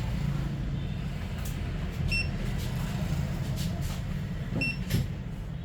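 Steady low hum with two short, high electronic beeps about two and a half seconds apart and a few light clicks.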